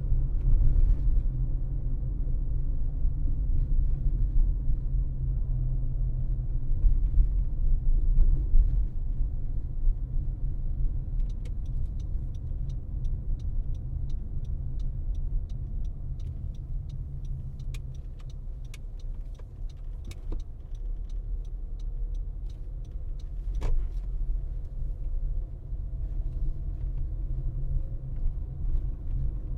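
A car driving, with a steady low rumble of engine and road noise. In the middle, a regular ticking, about three ticks a second, runs for about ten seconds, and a single sharp click follows shortly after.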